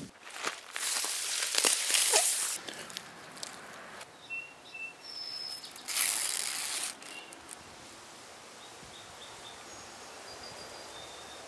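Several bursts of scraping, rustling noise in the first two and a half seconds and again around six seconds, then a steady outdoor hiss. A few short bird chirps sound about five seconds in and near the end.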